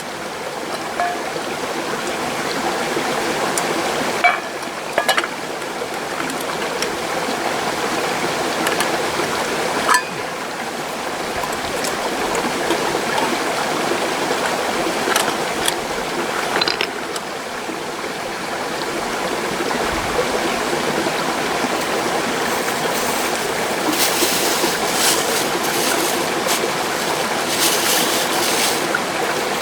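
Mountain stream rushing steadily, with a few short sharp clicks and crackles scattered through it, more of them near the end.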